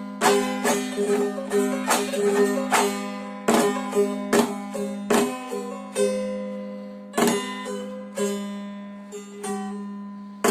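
A three-stringed kopuz played solo: a melody of plucked notes over a steady drone from the open strings, broken by several sharp strums.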